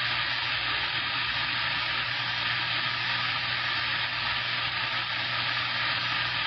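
CB radio receiver static: a steady, even hiss through the radio's speaker with a low hum underneath, the sound of an open channel with no one talking.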